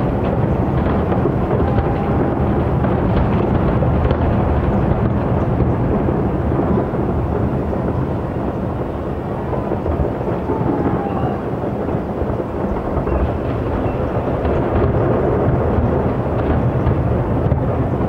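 Distant aerial fireworks booming, the bursts blurred into a continuous low rumble without distinct separate bangs.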